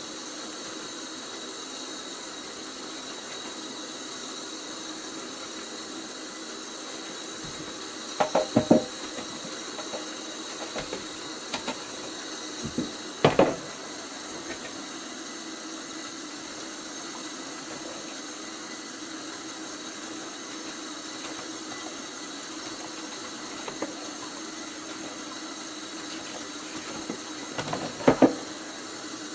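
Dishes and kitchenware being handled at a sink: a few short clattering knocks, about 8 seconds in, again near 13 seconds, and near the end, over a steady hiss.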